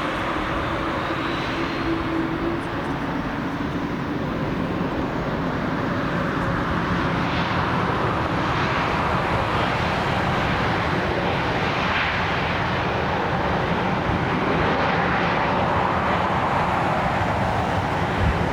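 Jet airliner's engines, a loud steady rush of jet noise that grows a little louder through the middle, with a faint rising whistle near the start.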